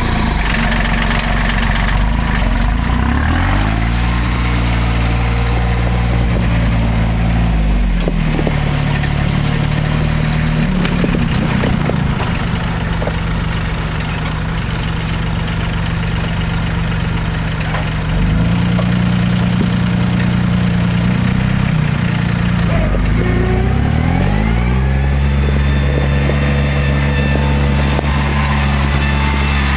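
Timberjack forwarder's diesel engine running, its revs climbing and falling back several times as it works.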